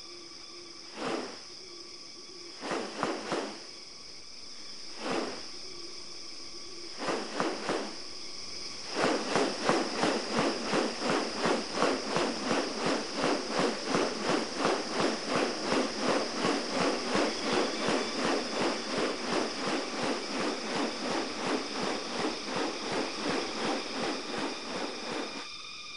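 Rainforest insects trilling steadily. A few short calls come in the first seconds, then from about a third of the way in a loud pulsing sound repeats about three times a second.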